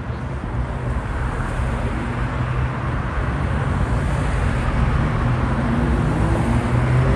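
Car engine running at low speed with a steady low note over traffic noise, growing gradually louder as it approaches.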